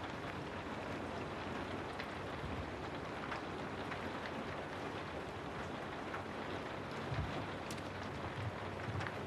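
Steady rain noise, with scattered sharp drop ticks over a dense, even hiss.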